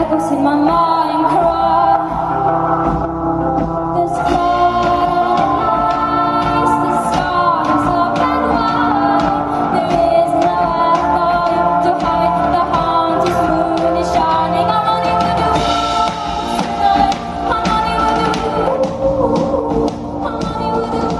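Live pop band playing with a woman's wordless sung vocals over it, with no pause.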